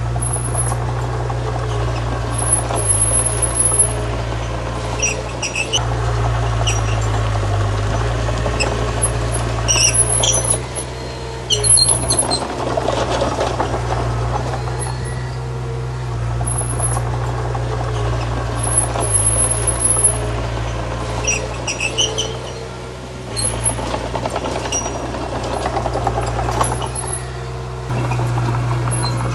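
Crawler bulldozer's diesel engine running steadily under load, with scraping and rumbling of pushed stone and repeated short high squeaks from its steel tracks.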